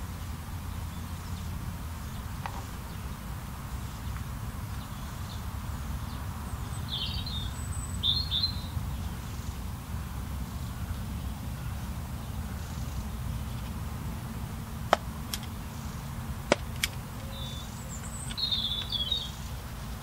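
Small garden birds chirping in short bursts, twice about seven and eight seconds in and again near the end, over a steady low rumble. Two sharp clicks come in between, from the trail camera being handled.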